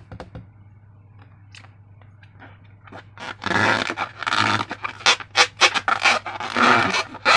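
Sticky slime squelching and crackling as it is squeezed and worked by hand: a few faint clicks at first, then a dense run of irregular wet squishes from about three and a half seconds in.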